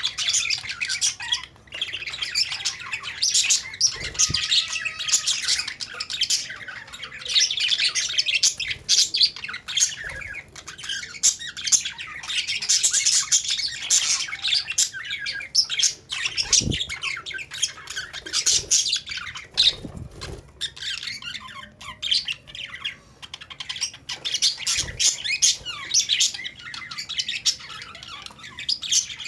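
A flock of caged Australian parrots chattering continuously, many birds chirping and squawking over one another at once.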